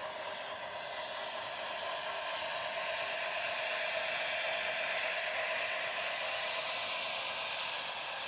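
Model train running on track: a steady whir of motor gears and wheels that grows a little louder toward the middle and then eases off, as if passing close by.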